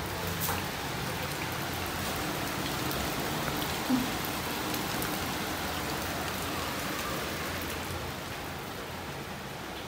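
Steady rain falling outside, an even hiss that eases a little near the end.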